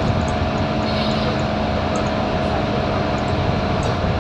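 Scania K230UB single-decker bus engine running steadily while the bus is under way: an even drone with a steady whining tone over it and a constant rumble of road noise.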